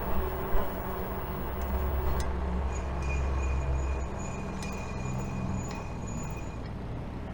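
Steady rumble of wind and tyre noise from a fat-tire electric bike on the move, with a few light clicks. A thin, steady high-pitched whine sounds from about a third of the way in until near the end.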